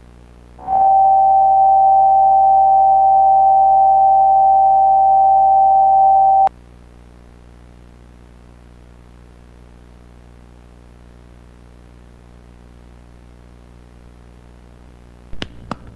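A steady electronic sine tone at one pitch starts about a second in and cuts off suddenly about six seconds later, leaving a low electrical hum. A few quick clicks come near the end.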